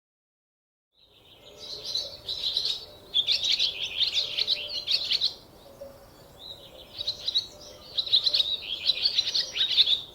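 Squirrel chirping in two long bouts of rapid, high-pitched, bird-like calls, starting about a second in with a short lull in the middle.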